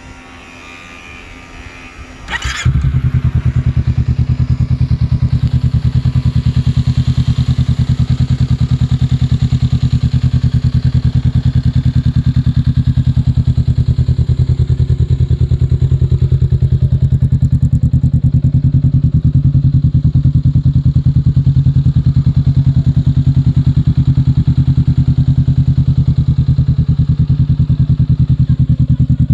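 Honda Rebel 500's parallel-twin engine starting about two and a half seconds in, catching at once, then idling steadily through an aftermarket stainless steel full-system exhaust with a low, even rumble.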